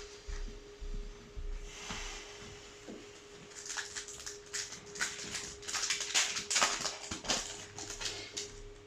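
Crinkling and rustling of a foil booster-pack wrapper being handled and torn open, with cards sliding, busiest from about three and a half to seven and a half seconds in. A faint steady hum runs underneath.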